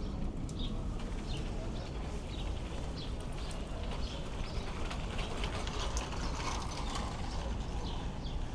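Open-air market ambience: a steady low rumble with a faint hubbub, dotted with many short, high ticks at an irregular pace.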